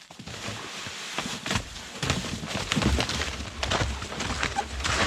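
Irregular crunching footsteps through snow and forest debris, with a low rumble of wind or handling on the microphone.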